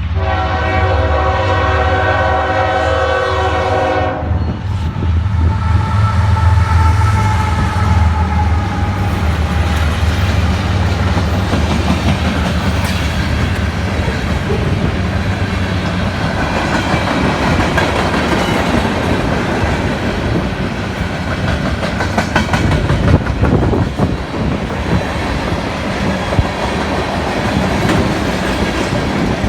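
CSX freight train passing: the lead diesel locomotive's air horn sounds a chord for about four seconds, over the deep rumble of the locomotives, then freight cars roll by with steady wheel-and-rail clatter.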